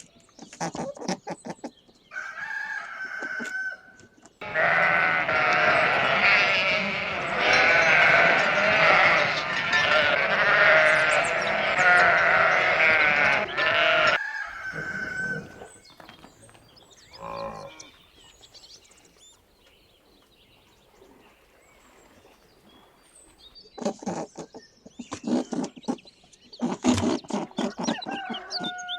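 Farm animals calling: a long stretch of many overlapping calls, then quieter, then a run of short calls near the end.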